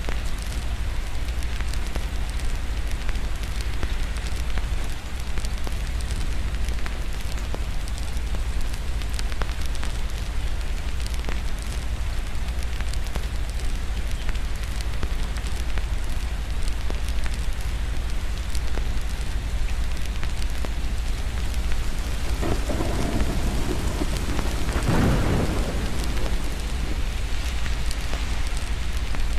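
Steady rain with fine crackling clicks of a fireplace over it. A roll of thunder swells in about 22 seconds in, peaks a few seconds later and fades.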